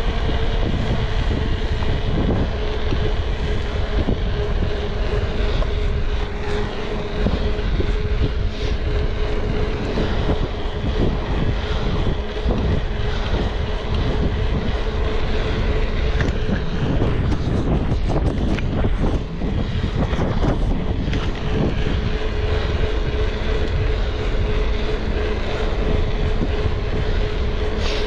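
A steady engine drone with a constant hum, running without a break.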